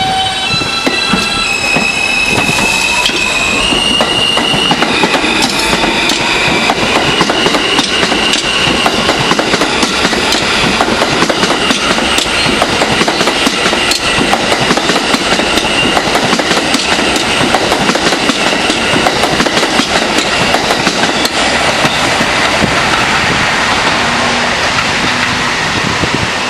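R160B subway train's traction motors giving a series of tones that step upward in pitch as it accelerates, then a long, loud run of wheels clacking over rail joints as the cars pass close by, with a faint whine above.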